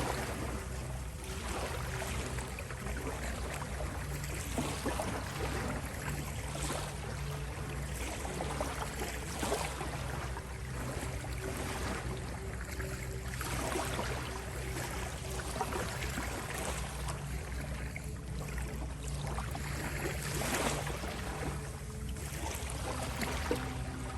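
Ocean waves washing in and drawing back, swelling and easing every few seconds, over soft sustained low tones of a healing-frequency drone.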